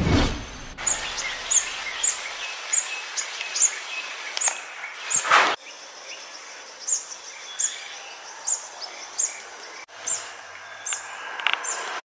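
A small bird repeating short, high, thin chirps about every half second to second, over a steady outdoor hiss. Brief rushes of noise come at the start and about five seconds in.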